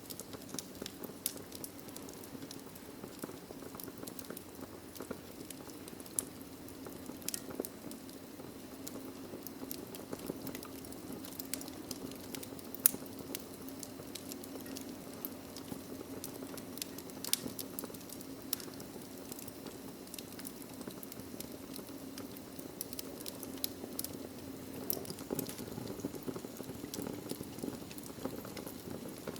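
Wood fire burning in a fireplace: logs crackling and popping at irregular intervals over a steady low hiss of flame, with one sharper pop a little before halfway.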